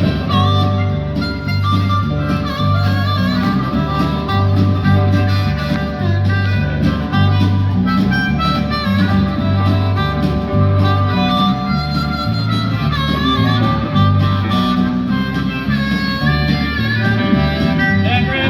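Live country band playing an instrumental break, led by a harmonica solo over an alternating bass line and guitar.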